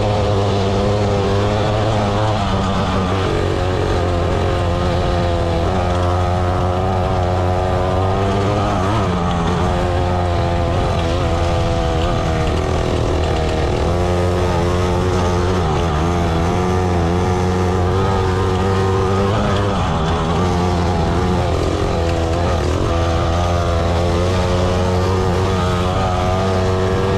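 Pit bike's small single-cylinder engine running steadily as it is ridden, its revs rising and falling over and over.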